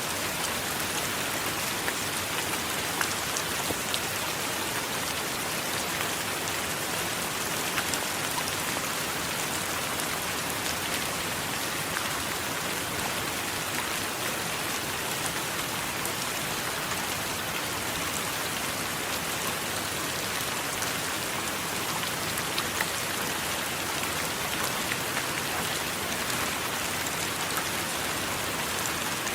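Steady rain: an even, unbroken hiss with scattered small drop ticks.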